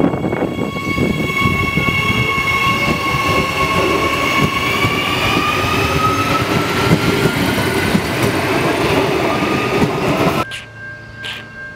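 Adelaide Metro 4000 class electric train running past close by, its wheels rumbling and rattling on the track, with a high whine that rises slowly in pitch. The sound cuts off suddenly about ten and a half seconds in, leaving a much quieter background.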